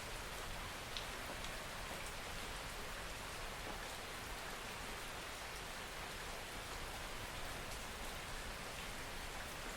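Steady soft rain falling, with occasional individual drops ticking, one slightly louder about a second in.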